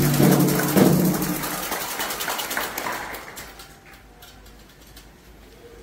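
Ceremonial hand drums and percussion playing loudly, dying away about a second and a half in and leaving a few scattered light taps.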